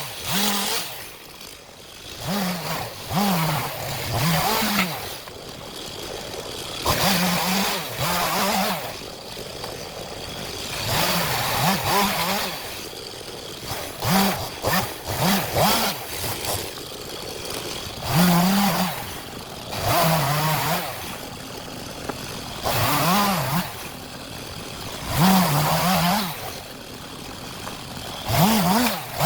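STIHL MS 251 two-stroke chainsaw revved in about ten short bursts, each rising to full throttle and sagging in pitch under load before dropping back toward idle, as it cuts through firewood logs.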